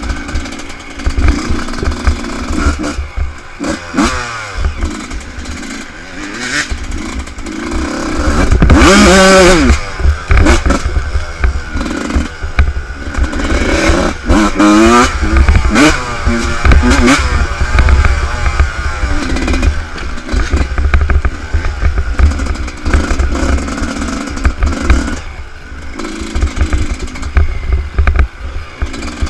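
Motocross motorcycle engine revving up and down repeatedly, loudest in one long rise and fall about nine seconds in, over a constant low buffeting rumble.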